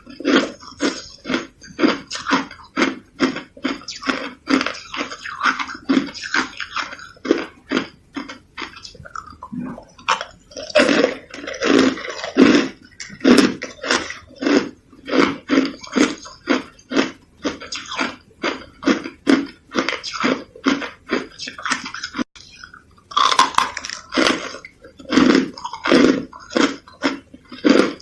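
A person chewing hard, crunchy shaved ice: crisp crunches about two to three a second, with two brief pauses.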